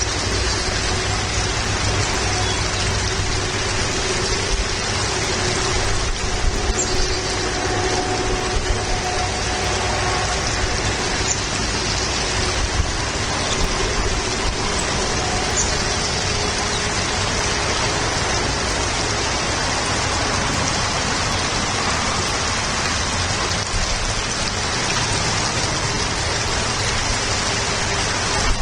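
Steady hiss of rain with a low rumble underneath and a faint held hum.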